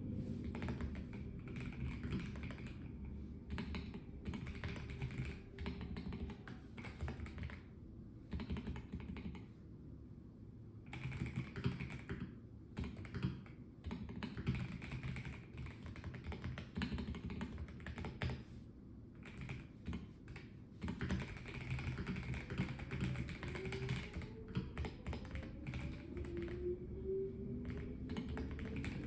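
Typing on a Melgeek Mojo84 mechanical keyboard with a plastic case: quick runs of key clicks broken by short pauses, over a steady low hum.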